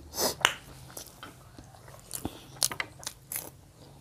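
Chewing and mouth smacking from people eating rice and curry with their hands, close to the microphone: a string of short, irregular wet clicks.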